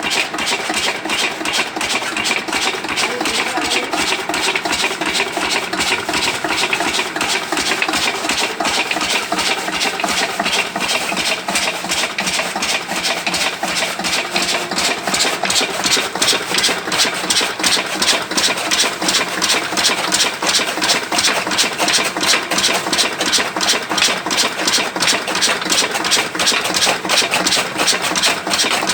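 Single-cylinder 8 hp Lister-type diesel engine running steadily with an even, regular beat, growing slightly louder about halfway through.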